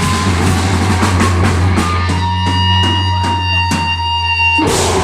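Live deathgrind band playing at full volume: distorted electric guitar and drum kit, settling about two seconds in into held ringing notes over steady drum hits, with a loud crash near the end.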